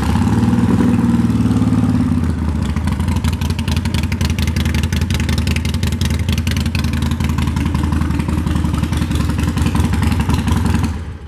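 Harley-Davidson Sportster 48's 1200cc V-twin running through aftermarket Python exhaust pipes, a little faster for the first two seconds, then idling steadily. It cuts off near the end.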